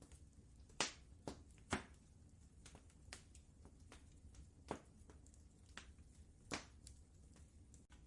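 Fireplace fire crackling: scattered sharp snaps and pops, the loudest about a second in, just before two seconds, and twice more later, over a faint low rumble.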